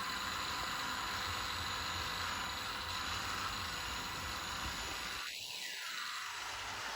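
Märklin my world battery-powered toy train running on its plastic track, a steady running noise that turns briefly fainter about five seconds in.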